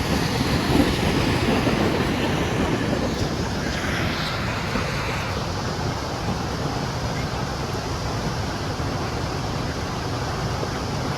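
Steady rush of whitewater from river rapids and falls, with wind buffeting the microphone.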